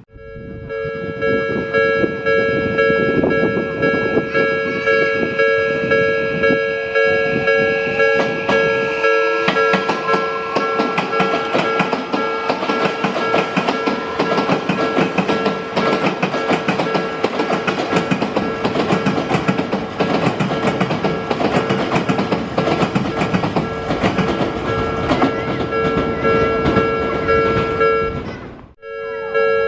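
Ten-car Odakyu train, a renewed 1000-series set coupled to a 3000-series set, pulling away past a level crossing: rapid rail-joint clatter, with a motor whine rising in pitch as it gathers speed. Under it the crossing's electronic warning bell rings steadily.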